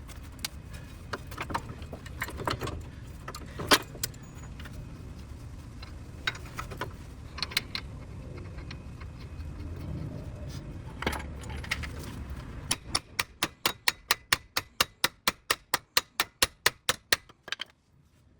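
Scattered metallic clinks and knocks of tools and parts being handled, then a quick, even run of clicks, about six a second, for about five seconds before they stop.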